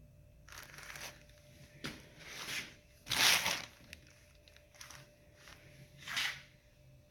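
Packaging being handled and pulled apart: a handful of rustling, crinkling swishes as a differential carrier is unpacked from its box, the loudest a little past the middle.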